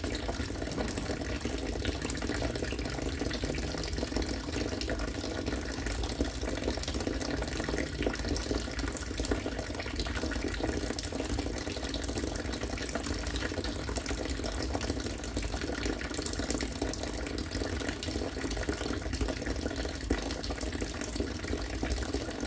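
Harvested rainwater falling steadily into collected water, a continuous splashing pour like a running tap.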